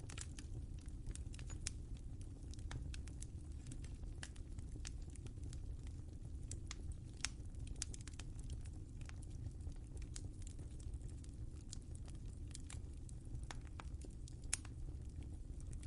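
Wood fire crackling in a fireplace: a steady low rumble of the flames under frequent irregular snaps and pops, with a louder pop about fourteen and a half seconds in.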